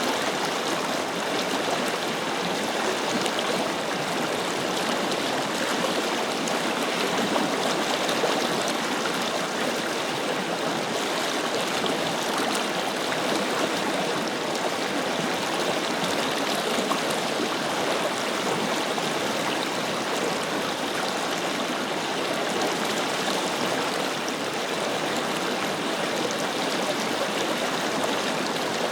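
Forest river flowing steadily, its water rushing and burbling without a break.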